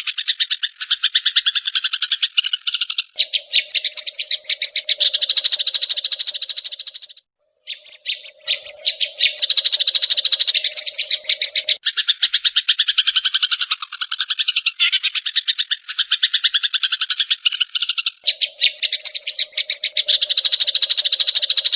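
Rapid, rattling songbird chatter in long runs of fast chirps, with a low steady note underneath in some stretches; it drops out for a moment about seven seconds in and resumes.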